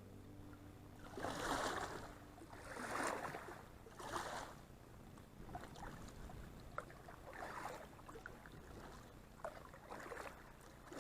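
Kayak paddle strokes: the blades swish into the water about once every second and a half, the first three strokes loudest and the later ones fainter.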